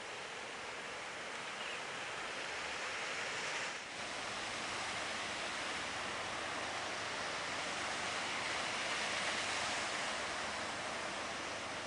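Steady rushing of a river flowing fast below, an even hiss-like roar of water that dips briefly about four seconds in.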